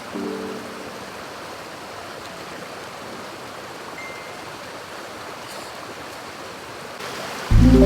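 Mountain stream rushing steadily. Music comes in loudly just before the end.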